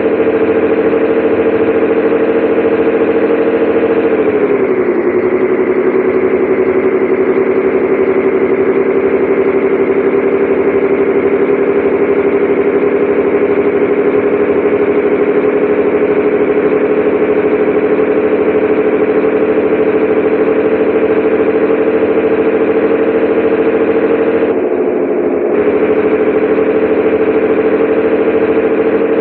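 Scania 113H 360's six-cylinder diesel engine running steadily. Its pitch drops about four seconds in and then climbs slowly, with another brief dip near the end.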